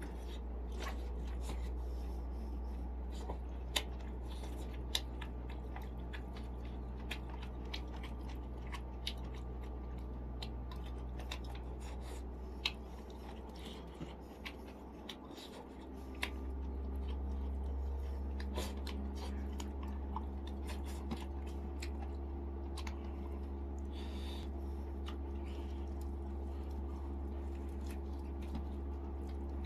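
Close-miked chewing and eating sounds of steamed chicken, with many small scattered smacks and clicks over a steady low hum that grows a little louder about halfway through.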